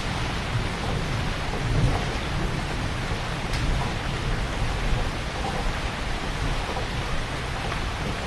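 Heavy rain pouring down in a dense, steady hiss, with a low rumble underneath.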